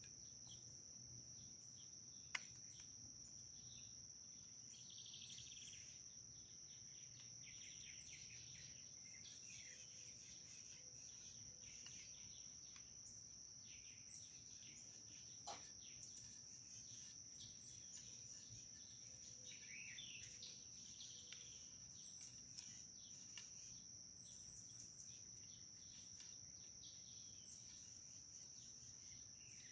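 Faint steady high trill of crickets, with scattered bird chirps. Two sharp clicks stand out, one about two seconds in and one near the middle.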